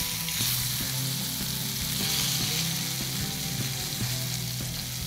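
Chicken chullu kababs sizzling steadily as they shallow-fry in hot oil in a nonstick frying pan, with scattered light clicks of metal tongs against the pan.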